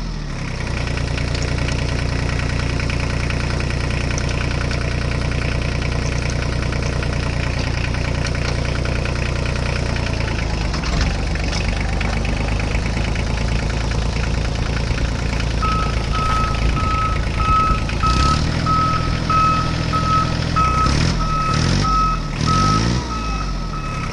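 Tractor engine sound running steadily, its note shifting about halfway through. From about two-thirds of the way in, a high reversing beep repeats at an even pace, a bit over once a second.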